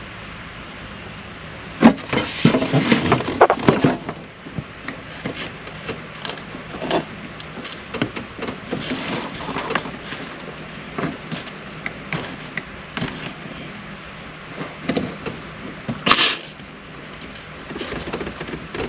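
Hand-handling noises of a part being worked into place: a burst of knocks and clatter about two seconds in, then scattered clicks and taps, with one sharper knock near the end.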